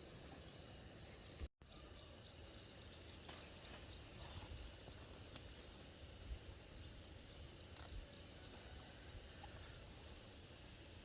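Insects chirring in a steady, high, faint drone with low outdoor background noise. The sound cuts out for an instant about a second and a half in.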